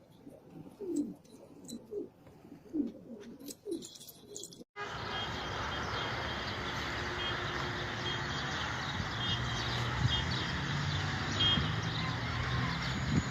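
Domestic pigeons cooing, a run of short low falling coos. About five seconds in it cuts abruptly to a steady rush of outdoor noise with faint high bird chirps.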